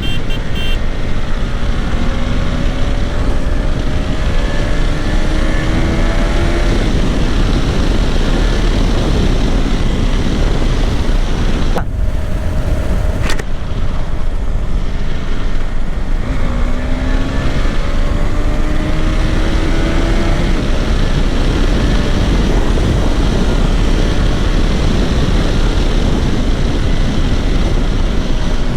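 KTM 390 Adventure's single-cylinder engine pulling under acceleration, its pitch rising steadily twice, under heavy wind rush on the microphone.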